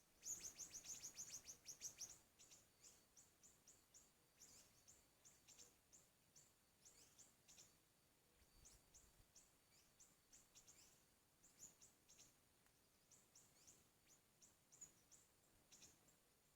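Faint, high-pitched bird chirps, the siri-siri call used as a lure: a fast trill of chirps in the first two seconds, then short single chirps repeated over and over.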